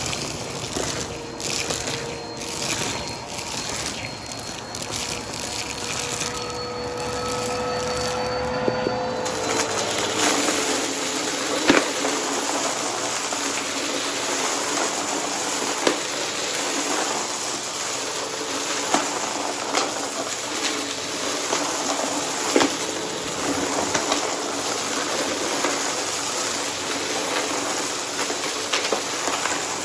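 Vacuum cleaner running over a mess, its motor humming and air rushing, with crackling and occasional sharp cracks of debris being sucked up. About nine seconds in the sound turns into a steadier, fuller rush of air.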